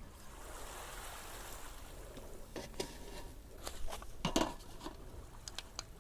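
A handful of light knocks and clinks, as of things being handled and set down, the loudest a little past the middle, over a faint steady hiss.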